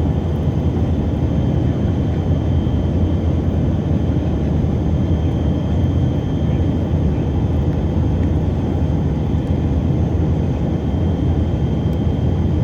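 Steady cabin noise of a Tupolev Tu-134AK airliner in cruise: the rear-mounted D-30 turbofans and airflow make an even low roar, with a faint high whine on top.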